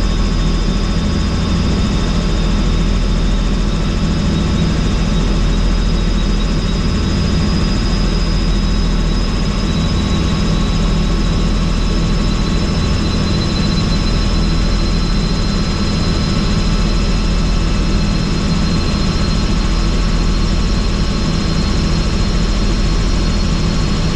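Helicopter in flight heard from on board: steady rotor and engine noise with a low rumble and a thin, high turbine whine over it.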